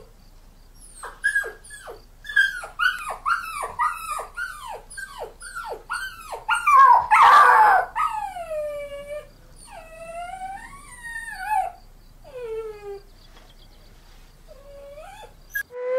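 Marmots calling: a quick series of short whistling calls, each sliding down in pitch, about two a second, then a louder, rougher call about seven seconds in, followed by several longer calls that rise and fall before petering out.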